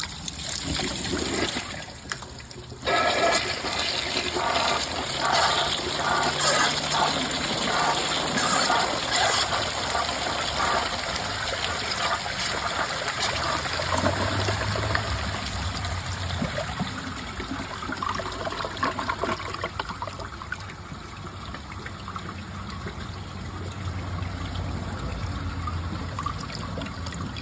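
Glacier Bay Power Flush toilet fed from a mid tank, flushing with all its rim jets clogged. Water starts rushing about three seconds in, then drains steadily in one long flush.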